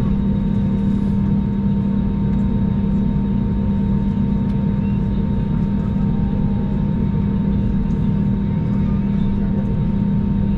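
Airbus A321's jet engines running at taxi power, heard inside the passenger cabin as a steady, even drone with a constant low hum and a faint thin tone above it.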